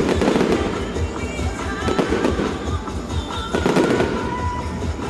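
Fireworks bursting and crackling in quick succession, with music playing loudly underneath.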